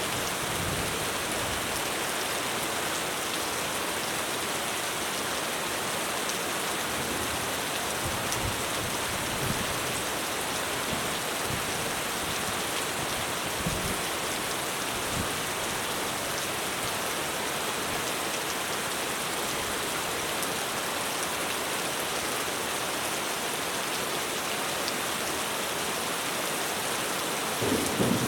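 Heavy rain falling steadily on a roof, with a roll of thunder starting near the end.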